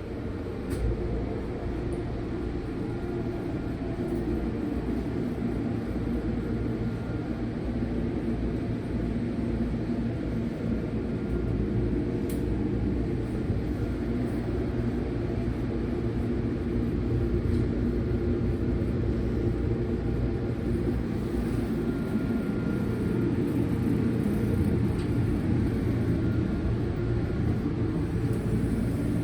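Steady low rumble of a Toyama Chihō Railway electric train standing in the station, getting slightly louder along the way.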